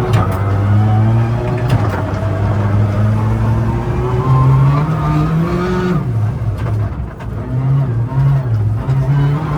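Turbocharged Ford Fiesta ST rally car engine revving hard under acceleration: the pitch climbs for about six seconds, drops sharply at a gear change, then rises and falls in quick bursts as the car is driven on the ice. A few sharp cracks stand out over the engine.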